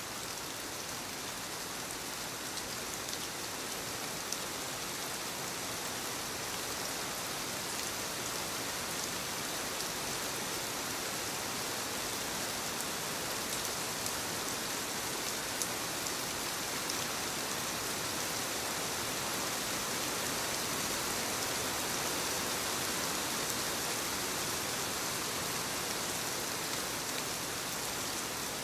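Soft, steady rain falling on leaves, with scattered individual drops ticking through the even hiss.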